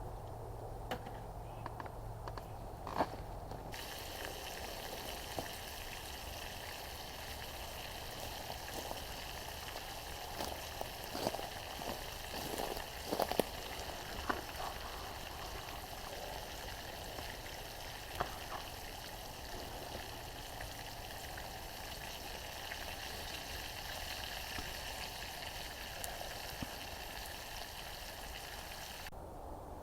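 Food sizzling in a frying pan: a steady hiss that starts a few seconds in and cuts off shortly before the end, with a few clicks and knocks of a utensil around the middle.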